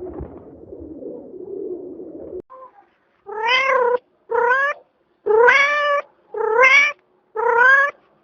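A cat meowing five times in a row, each meow a short rise and fall in pitch, about a second apart. Before that, a low, even murmur runs for the first two seconds or so and cuts off abruptly.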